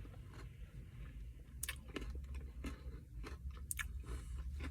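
Someone eating a Dairy Queen Blizzard with a spoon: a run of sharp clicks and crunches starting about a second and a half in, over a low steady hum.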